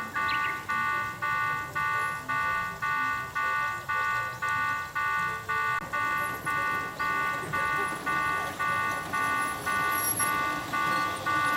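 Electronic railway level-crossing warning bell ringing, a repeating two-tone clang a little over twice a second.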